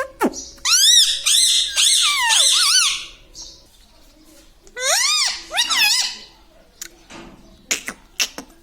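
Pet parrot calling in two bouts of high, rapidly warbling chatter, followed by a few short clicks near the end.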